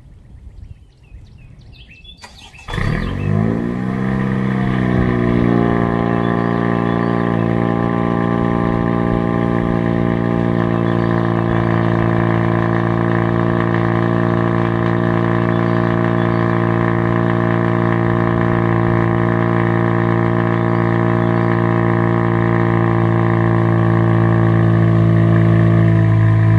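Honda Civic Si 1.5-litre turbo four-cylinder cold-starting about two and a half seconds in. It flares briefly, then settles into a steady idle. The exhaust runs through a catless Megan Racing front pipe and downpipe with the stock resonator and mufflers.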